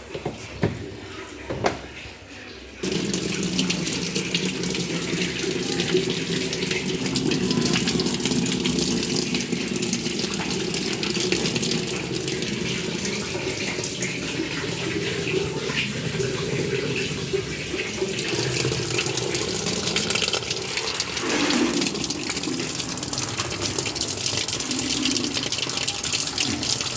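Water running into a washing machine's tub as it fills. It starts suddenly about three seconds in after a couple of clicks, and then flows steadily.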